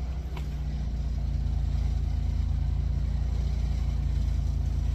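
An engine running steadily at a low, even speed, with a fast regular pulse and no revving.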